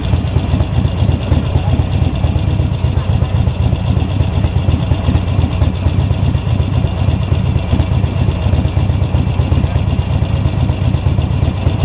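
Harley-Davidson XL1200 Nightster's air-cooled 1200 cc V-twin idling steadily while the bike is stopped.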